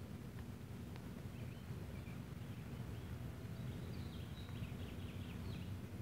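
Faint, short bird chirps from just over a second in until near the end, over a steady low rumble, with two small clicks in the first second.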